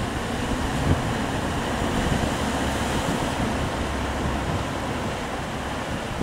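Steady rushing of wind and water while sailing, with wind buffeting the microphone and a brief thump about a second in.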